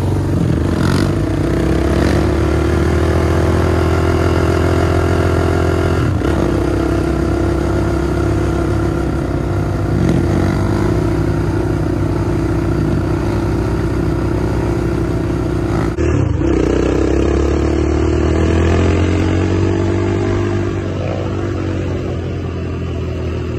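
Dirt bike engine running steadily at idle, with slight rises and falls in pitch.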